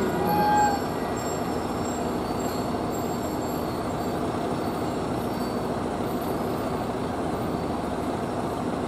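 GV-E400 diesel-electric railcar approaching, its engine and running gear making a steady, even noise. A brief high tone sounds about half a second in.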